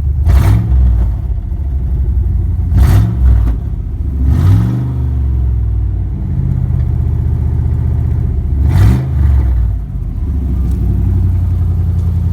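1996 Ford Explorer engine with its catalytic converters removed, idling and blipped four times, each rev rising quickly and dropping back to idle.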